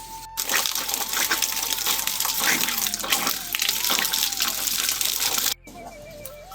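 Loud, steady rush of water, gushing or pouring hard. It starts abruptly just after the start and cuts off sharply about a second before the end.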